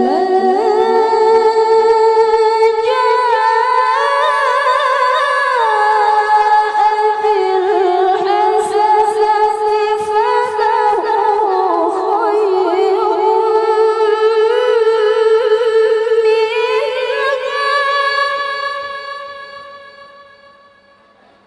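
A woman's high, clear voice reciting the Quran in tilawah style, holding one long unbroken melismatic phrase whose pitch steps and wavers around a held note. It fades out over the last few seconds.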